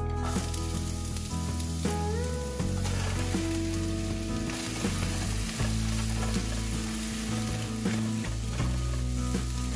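Minced onion and mushrooms sizzling in hot oil in a nonstick wok, stirred with a silicone spatula. The sizzle starts suddenly as the onion goes into the pan.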